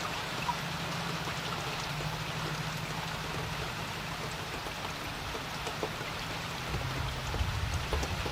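Steady rain falling on a creek: an even hiss dotted with scattered ticks of individual drops. A low rumble swells briefly near the end.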